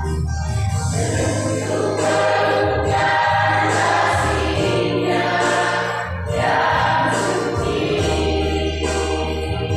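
A choir singing in parts over sustained low bass notes that change every second or two.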